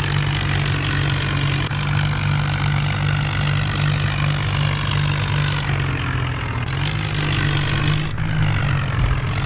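An engine idling steadily with a deep hum. Its pitch steps up slightly about seven seconds in, and the sound changes abruptly several times, as if spliced.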